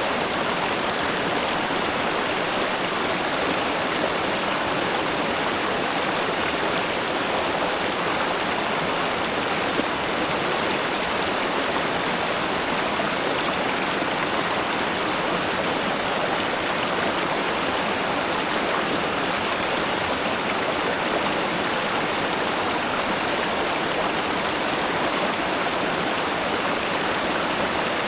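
River water flowing steadily, an even rushing sound with no pauses or changes.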